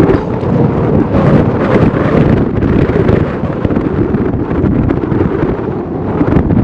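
Heavy wind buffeting the microphone: a loud, steady low rumble that flutters with the gusts.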